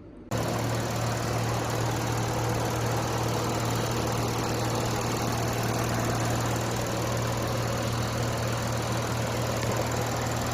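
Toyota Crown Athlete GRS181's 2.5-litre V6 idling steadily with an even low hum, cutting in abruptly just after the start.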